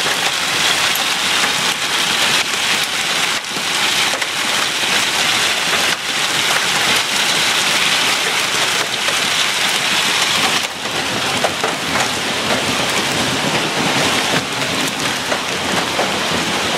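Heavy hail pelting down: a dense, steady clatter of countless hailstones striking hard surfaces, easing slightly about ten seconds in.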